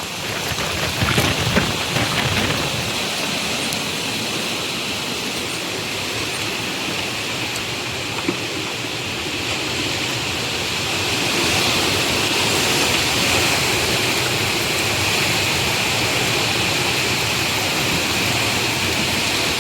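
Strong storm wind blowing hard, a continuous rushing noise that swells a little about halfway through, with a few light knocks in the first couple of seconds.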